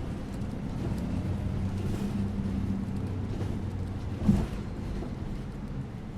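Bus interior ambience: the engine's steady low drone under road noise, with a short thump about four seconds in.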